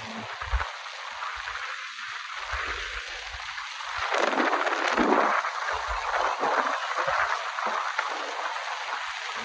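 Water splashing and sloshing around a jet ski, with wind buffeting the microphone in uneven low puffs. The hiss of the water swells about halfway through.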